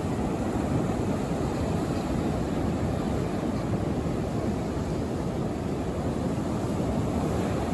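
Rough surf breaking on a beach, with wind rumbling on the microphone: a steady, even roar with no separate events.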